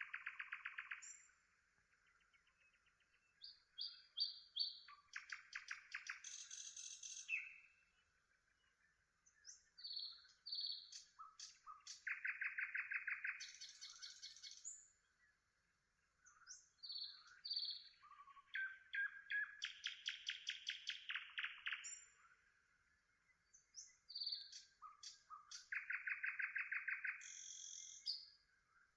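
A songbird singing a varied song in separate phrases of rapid trills, quickly repeated notes and short whistles, with pauses of a second or two between phrases.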